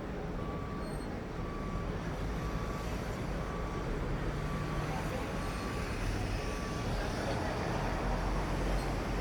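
A dockside forklift's reversing alarm beeps at an even, single pitch, a little faster than once a second, and stops about seven seconds in. A steady low engine rumble runs underneath.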